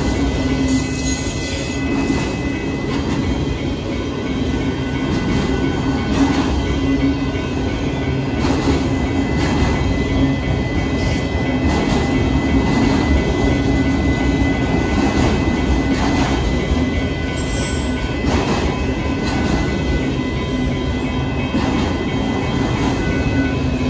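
Freight train of enclosed autorack cars rolling steadily past, a continuous rumble and rattle of cars and wheels on the rails with occasional faint clicks.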